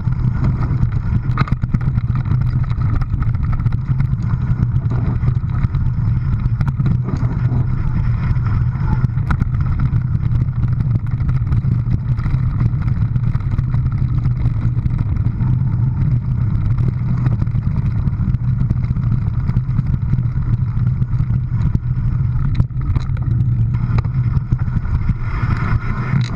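A vehicle's engine running at a steady drone with road and wind noise, as while driving at an even speed.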